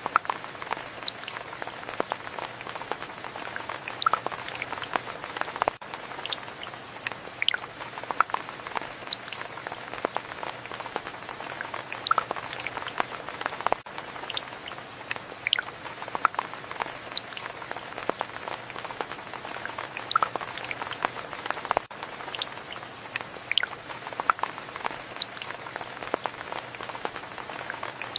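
Steady rain, with individual drops tapping sharply and irregularly on a surface.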